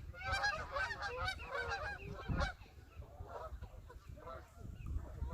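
A flock of geese honking, many calls overlapping, loudest in the first half and thinning out after about two and a half seconds, with a low wind rumble on the microphone.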